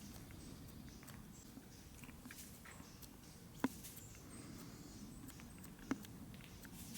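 Faint sharp taps, like a small bird hopping or pecking on wood, with two louder ones midway and near the end. Short thin high notes come and go faintly between them.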